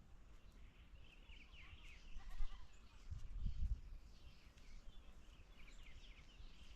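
Faint goats bleating, a string of short quavering calls, with a low thump about three seconds in.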